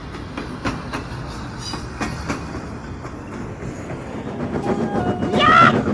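Train running along the track: a steady rumble with irregular clicks of the wheels over rail joints. A high, voice-like call starts near the end.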